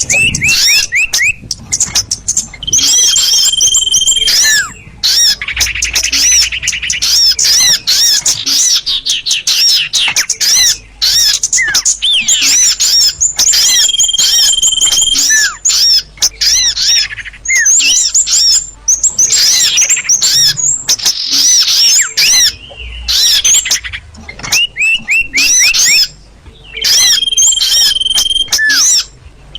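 Recorded small-bird lure calls (suara pikat) played loud from an mp3: rapid, repeated high chips and trills, broken about three times by a held high whistle about a second long.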